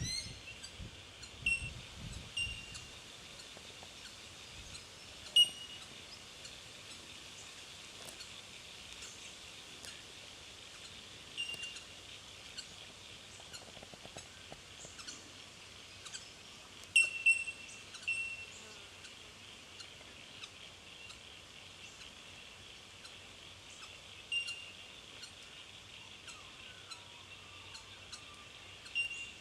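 Bell miners calling: single short, clear, bell-like 'tink' notes at scattered intervals, the loudest about five seconds in and a quick pair near the middle, over a steady high-pitched background hiss.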